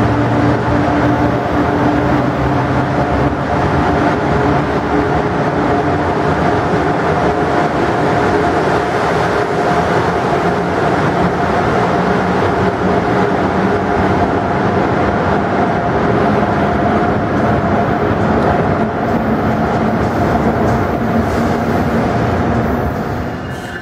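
Amtrak electric passenger trains moving along the station tracks: a steady, loud rolling rumble with a constant hum.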